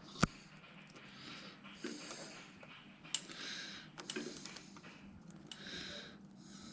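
Soft handling noises: a sharp click just after the start, then a few brief hissing swells and light knocks.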